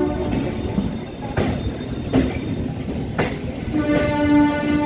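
Suburban EMU local train running along the track, with a rumbling ride noise and a few sharp clacks as the wheels cross rail joints. A train horn sounds for about a second near the end.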